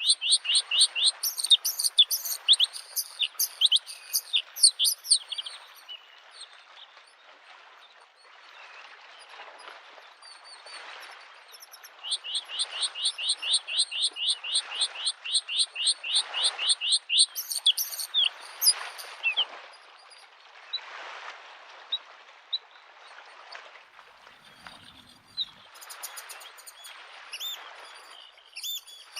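A bluethroat singing: two long phrases of fast, evenly repeated high notes, with more song near the end, over waves lapping on a lake shore in a wash that swells and falls every second or two.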